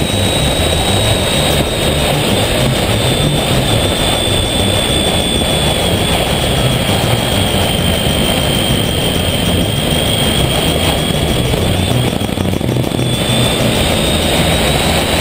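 Honda ST1300's V4 engine and wind noise at road speed, heard from a bike-mounted camera: a steady loud rush with a constant high whine that drifts slightly in pitch.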